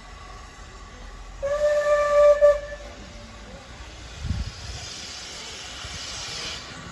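Steam locomotive whistle blown once for about a second, a single steady tone. A low thump follows, then a few seconds of steam hissing.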